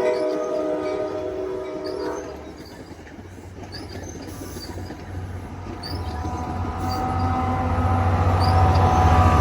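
NJ Transit commuter train led by a Comet V cab car: a chorded horn blast that cuts off about two seconds in, then the low rumble of the train growing louder as it draws near.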